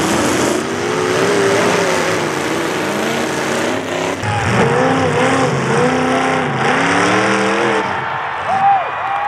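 Several demolition derby car engines revving hard together over a loud wash of noise, their pitch rising and falling again and again as the cars push against each other.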